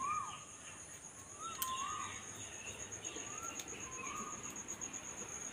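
A bird calling over and over, short rising-and-falling notes about once a second, over a steady high-pitched insect trill. A single sharp click about one and a half seconds in.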